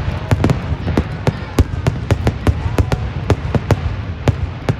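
Fireworks going off in a rapid, irregular string of sharp bangs and crackles, several a second, over a low rumble; the bursts stop near the end.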